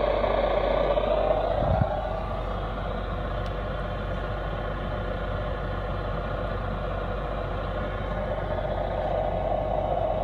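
Steady hiss of static from a mobile radio receiver, under a low hum. A fading signal ends with a click about two seconds in.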